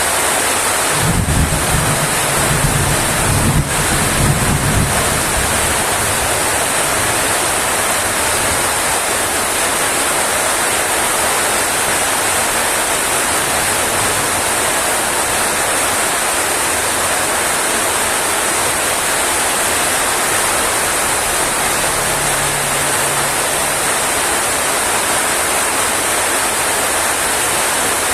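Steady heavy rain. A low rumble starts about a second in and lasts a few seconds.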